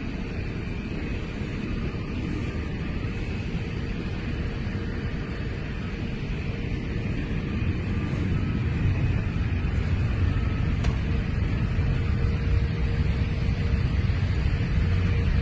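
Jet airliner engines with a steady low rumble that grows somewhat louder about halfway through, with a faint steady hum over it.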